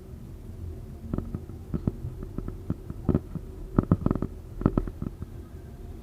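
A 71-931M Vityaz-M tram running, heard as a steady low rumble with irregular knocks and clacks, most of them in the second half.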